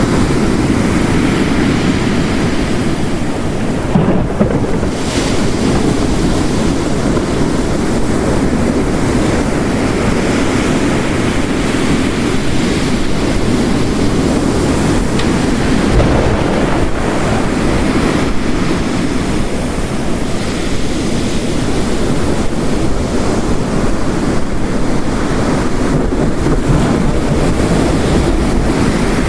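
Layered storm ambience: ocean waves crashing on a rocky coast under heavy rain, a dense steady rush that swells and eases slowly.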